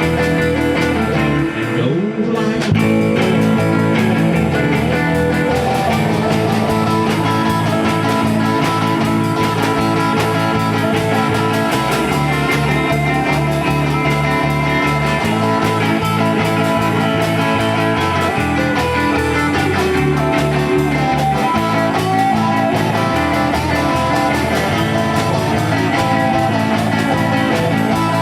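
Small rock band playing a guitar-led instrumental passage, with the bass moving between held notes every few seconds; the sound drops briefly about two seconds in.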